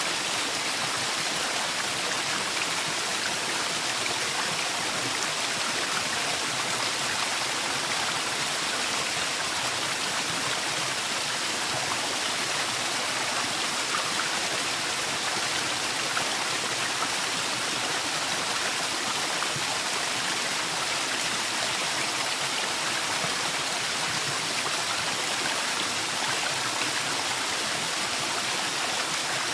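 Waterfall in a forest, water falling and rushing with a steady, unchanging hiss.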